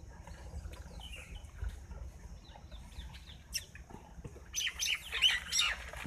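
Birds chirping: scattered faint chirps at first, then a busy run of loud, quick chirps over the last second and a half.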